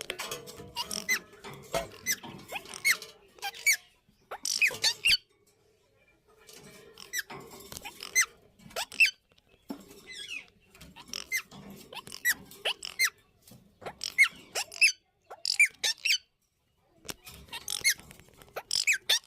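Indian ringneck parrots calling with many short, high-pitched squeaky chirps in quick runs, broken by a couple of brief pauses.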